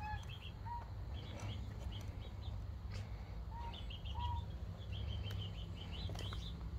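Birds chirping: quick runs of short high twittering notes, with a few short lower whistled notes mixed in, over a steady low rumble.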